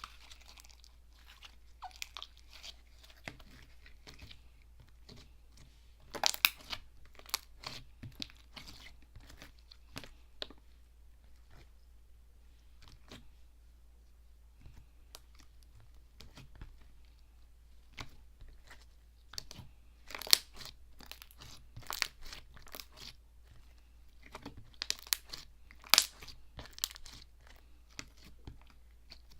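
Clicky, crunchy slime being pressed and worked by hand, giving sharp clicks and crackles. They come in three dense bursts, a few seconds in, about two-thirds through and near the end, with scattered single clicks between.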